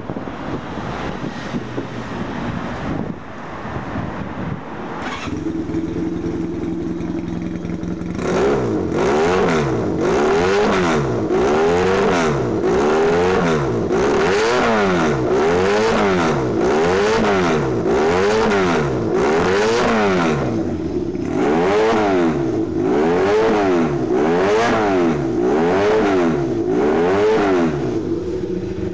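Honda CB250T running on a swapped-in 400 parallel-twin engine, idling and then blipped repeatedly, about one rev a second. It drops back briefly to idle about two-thirds of the way through, then revs again.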